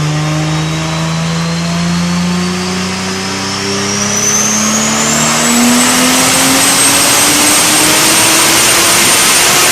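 Lexus IS300's 3-litre 2JZ-GE straight-six accelerating hard in one long pull, its note rising steadily, with a high whine climbing alongside that levels off about halfway through.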